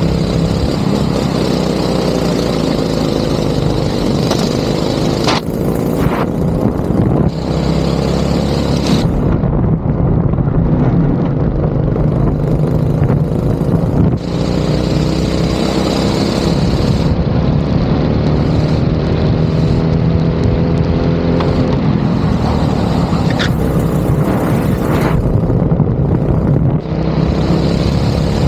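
Go-kart engine running hard, its pitch climbing slowly as it accelerates and then dropping back several times as it slows.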